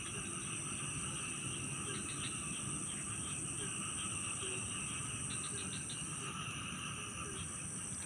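Steady, high-pitched insect chorus that holds on unbroken, over a low even rush of flowing ditch water.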